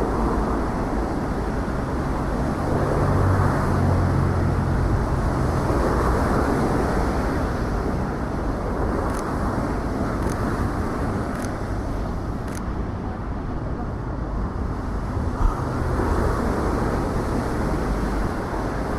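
City street traffic noise: the steady sound of vehicles on the road, with an engine's low hum swelling a couple of seconds in as a vehicle passes close. Four faint short high clicks come about a second apart past the middle, and a brief knock a few seconds before the end.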